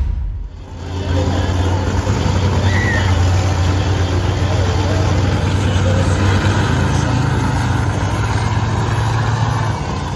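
Monster truck engine running steadily at low revs, a deep even drone.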